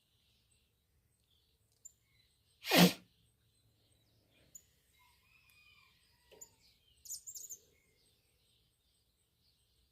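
Scattered small bird chirps, including a quick high-pitched trill about seven seconds in. About three seconds in there is one loud, short burst of noise, much louder than the birds.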